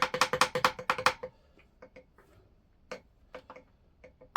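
Hammer tapping on a screwdriver to bend up a metal locking tab on a connecting-rod big-end bolt, each strike with a short metallic ring. A quick run of taps stops about a second in, followed by a few scattered single taps.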